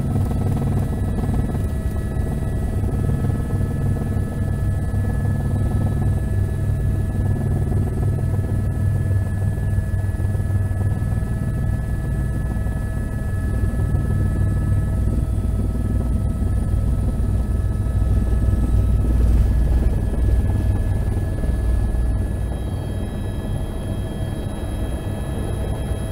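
Helicopter running steadily: a low pulsing rotor rumble under a steady engine whine, easing off slightly near the end.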